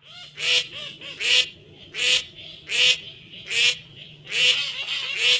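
Seven short honk-like blasts at an even beat, about one every three-quarters of a second, over a steady low drone: a honking sound effect in the sped-up song track.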